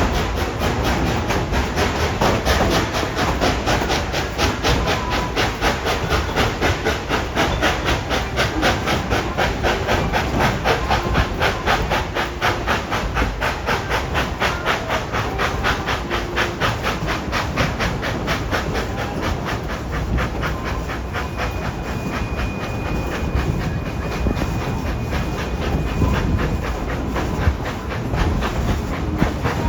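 Steam locomotive chugging along at a rapid, even beat over a steady hiss of steam, with the passenger cars rolling on the rails. A faint, steady high tone sounds for several seconds about two-thirds of the way through.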